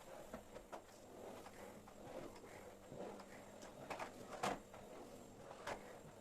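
Faint, scattered light knocks and clicks of household objects being handled during cleaning, over a soft rustling background. The loudest knocks fall about four seconds in and just before the end.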